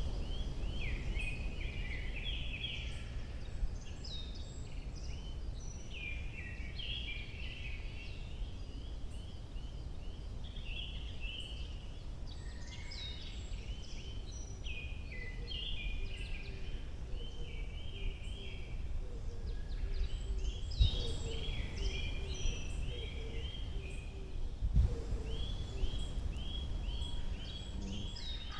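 Several woodland songbirds singing over one another in a spring morning chorus, with repeated chirping phrases and, near the end, a quick run of evenly spaced notes. A steady low rumble sits underneath.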